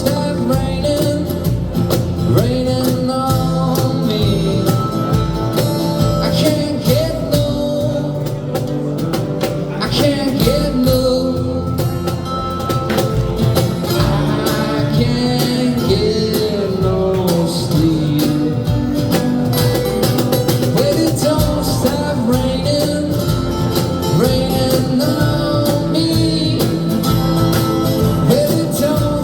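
A band playing live: a song with a singer's voice over amplified instruments, loud and continuous.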